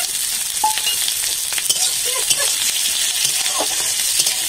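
Chopped onion, garlic and chillies sizzling in hot mustard oil in a metal kadai, stirred with a metal spatula, with scattered sharp clicks over a steady hiss.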